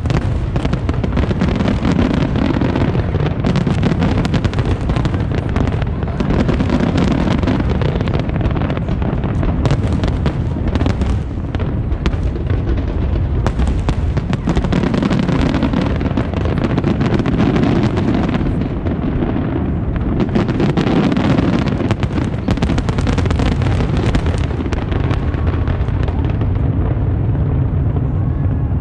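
Fireworks shells bursting in a dense, continuous barrage of overlapping booms and crackles, thinning slightly near the end.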